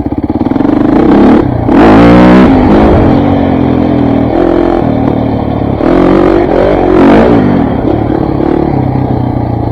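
KTM 400 MXC dirt bike's single-cylinder four-stroke engine under way, revving up and down with the throttle. It surges loudest about two seconds in and again about seven seconds in.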